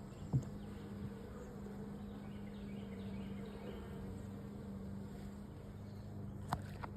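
Honeybees buzzing around an open hive, a steady low hum. A couple of light knocks sound, one just after the start and one near the end.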